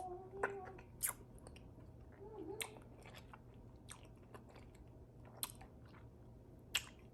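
A person chewing a mouthful of fruit from a bowl of berries in cold coconut water with ice, with several sharp clicks spread through the chewing.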